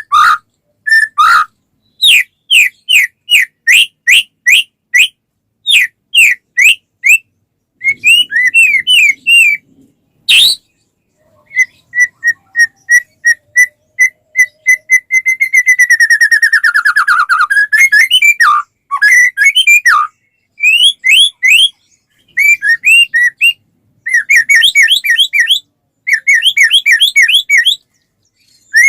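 White-rumped shama (murai batu) in full, loud song: phrases of clear whistled notes, many of them repeated quick upslurs, broken by short pauses. About halfway through comes a long, fast trill that slides down in pitch.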